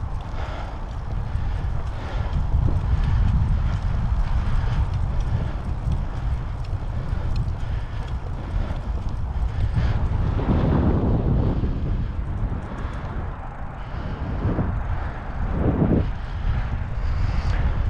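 Wind rushing over the microphone while cycling, a steady low rumble, with louder swells about ten and sixteen seconds in.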